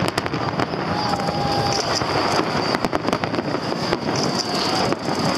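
Fireworks display: many shells bursting in quick, irregular succession, a dense run of bangs and crackles.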